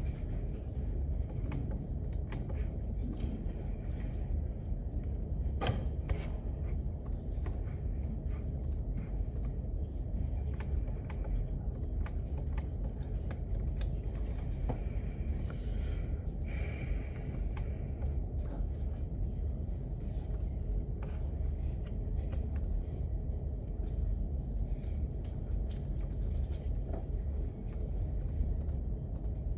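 Study-room ambience: a steady low rumble with scattered light clicks of typing on a computer keyboard, and a brief rustle around the middle.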